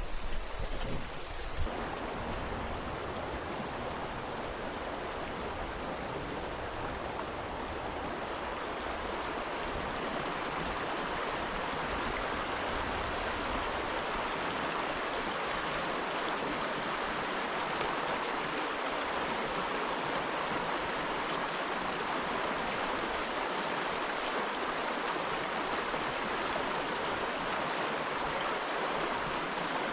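River Dove water rushing steadily over rocks and around the stepping stones, an even, unbroken sound. A low rumble is heard in the first couple of seconds.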